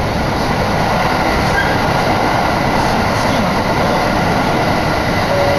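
Iwate Galaxy Railway electric train running at speed, heard from inside the passenger car: a steady rumble of wheels on the rails.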